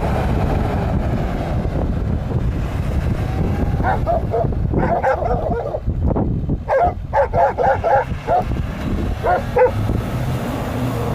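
A dog barking in quick runs of short barks from about four seconds in, over a steady low rumble of truck engines and wind on the microphone.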